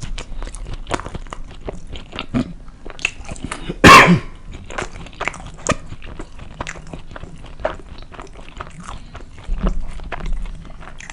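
Close-miked chewing of a burrito: many small wet mouth clicks and smacks. One short loud burst about four seconds in stands out above the chewing.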